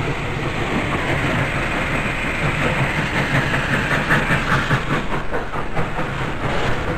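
Norfolk & Western 1218, a 2-6-6-4 articulated steam locomotive, running past with its train: a steady rumble and hiss, with a quick rhythmic clatter of wheels over rail joints in the second half.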